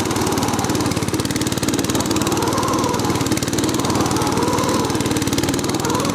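A small engine running hard, its pitch rising and falling twice as the throttle is worked, while the machine bogs down and struggles to move in deep powder snow.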